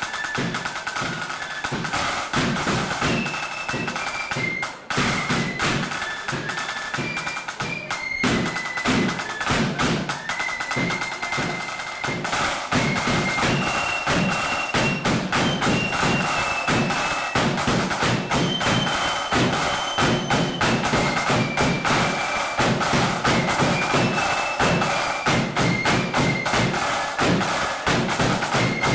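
Marching flute band playing a tune: flutes carry the melody over fast snare drumming and bass drum beats.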